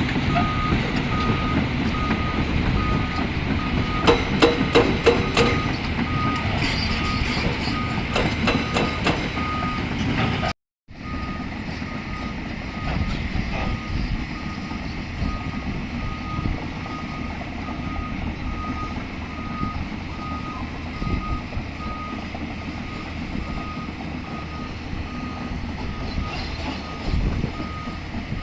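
A heavy construction machine's backup alarm beeps steadily, about one and a half beeps a second, over a diesel engine running. Clatters and knocks of rock are heard between about 4 and 9 seconds in. The sound cuts out completely for a moment about 11 seconds in, then the beeping and engine carry on.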